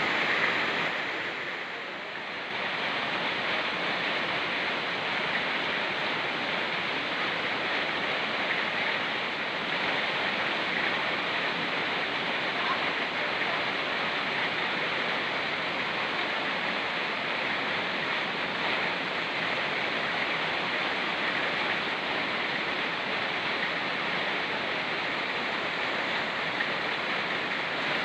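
Rain falling together with a fast-flowing mountain river: a steady, even rush of water, dipping briefly in loudness about two seconds in.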